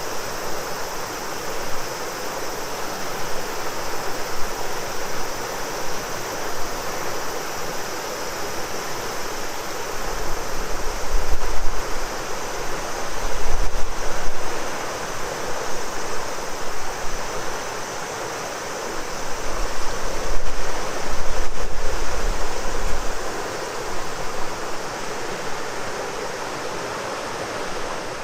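Shimanto River flowing: a steady, full rush of moving water, with cicadas singing as a constant high drone over it. Low rumbles of wind on the microphone come in gusts about a third of the way in and again past the middle.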